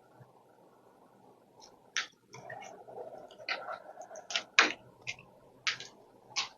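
A run of about ten short, sharp clicks and rustles of handling noise over a faint steady hum, starting about two seconds in.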